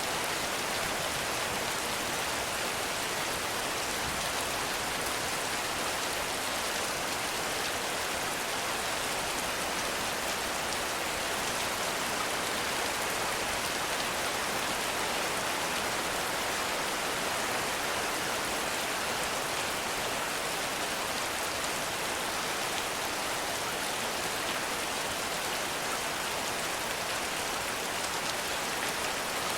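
Heavy rain falling steadily as a dense, even hiss with no thunder.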